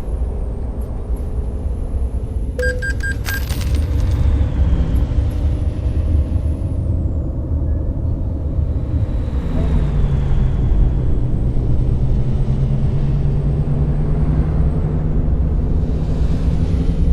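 Scania K420 bus running on the road: a steady low engine rumble and road noise, with the engine's hum growing stronger about ten seconds in. A brief cluster of clicks comes about three seconds in.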